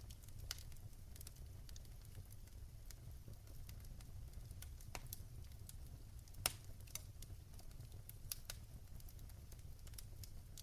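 Wood fire burning in a fireplace: irregular sharp crackles and pops over a low steady rumble, with one louder pop about six and a half seconds in.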